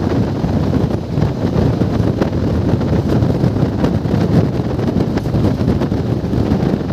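Passenger train running: a steady rumble of the wheels on the rails, with wind noise on the microphone.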